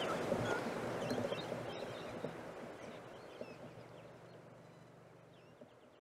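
Outdoor field ambience with a few faint, scattered bird chirps, fading out gradually to near silence.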